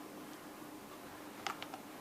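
A few light, sharp clicks about one and a half seconds in, from the plastic hair dryer being handled, over a faint steady hum.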